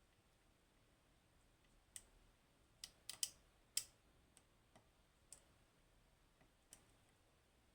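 Faint, irregular metallic clicks from a pick and tension tool working the pins of a Goal Z seven-pin pin tumbler lock during picking. A cluster of louder clicks comes about three seconds in, followed by a few scattered softer ones.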